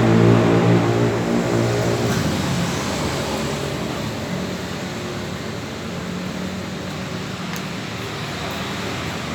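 Racing Vespa scooter with an aftermarket exhaust: its engine note is strong at first and fades away over about two seconds, leaving a steady hum of traffic noise.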